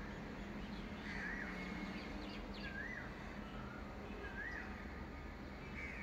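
A songbird repeating a short whistled note that slides up and back down, about every second and a half, with a few faint chirps from other birds about two seconds in. A steady low hum lies underneath.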